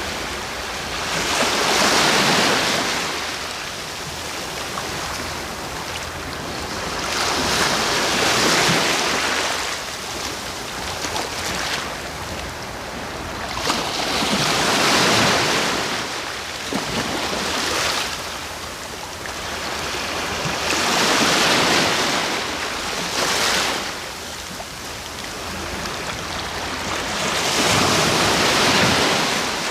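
Sea waves breaking on the shore: five surges of surf, one about every six to seven seconds, each swelling and then easing back into a steady wash.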